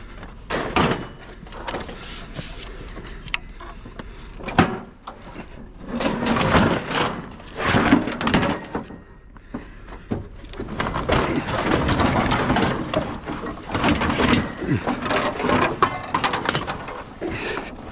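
A dishwasher being shoved and levered up onto a load of scrap: a run of knocks, bumps and scraping of its metal body, with longer stretches of dragging in the middle and second half.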